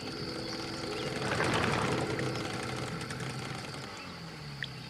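An engine running, swelling and then easing off as it passes, with a steady high whine above it.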